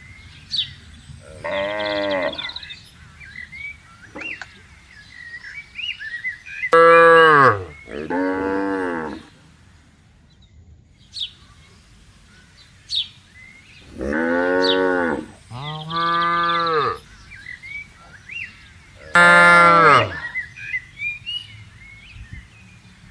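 Cattle mooing: about six long moos, some coming in close pairs, several dropping in pitch as they end.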